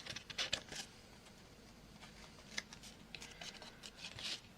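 Paper and card being handled: faint, scattered rustles and light taps.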